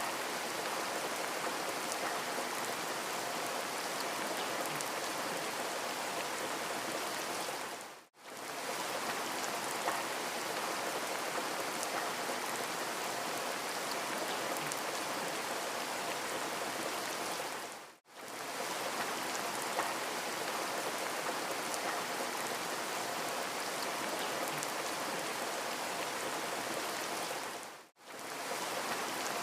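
Steady rain hiss with faint droplet patter, a recorded rain-ambience track. It fades out to near silence and straight back in about every ten seconds, three times, where the short recording loops.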